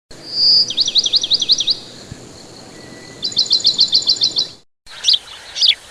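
A bird chirping: a short high whistle, then two quick runs of high repeated chirps, then a few separate falling chirps after a brief break near the end.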